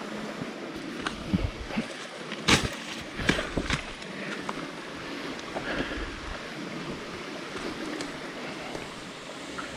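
Steady rush of running water, with a handful of sharp knocks between about one and four seconds in.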